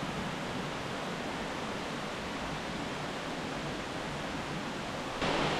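Steady rushing of a creek waterfall, turning louder and brighter about five seconds in.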